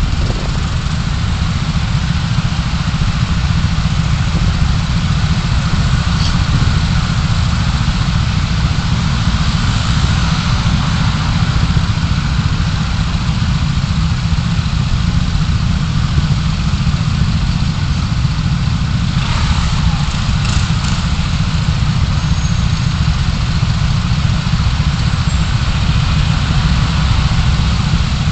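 Steady low rumble of a car's engine and road noise, heard from inside the car through a dashcam.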